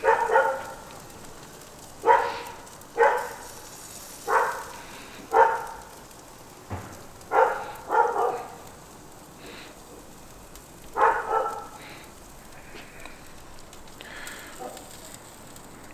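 A dog barking about eight times, mostly in pairs, over a steady sizzle from pork chops cooking over a charcoal and hickory fire.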